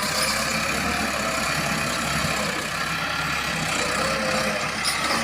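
Tractor engine running steadily, driving a belt from its front pulley.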